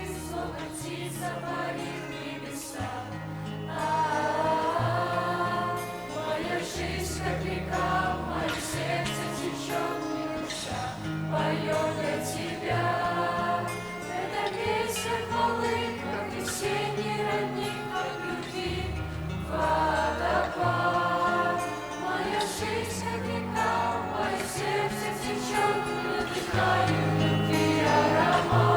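Teenage church choir singing a Russian-language worship song over instrumental accompaniment with held bass notes. The choir grows louder about four seconds in.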